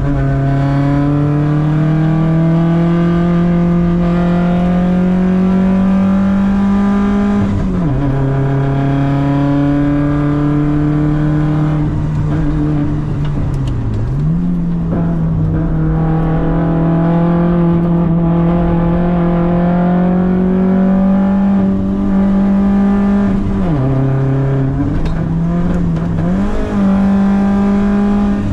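An Audi quattro race car's engine, heard from inside the cockpit under hard acceleration. The revs climb steadily and drop sharply with a gear change about eight seconds in. They dip and pick up again about halfway, then drop and climb once more near the end.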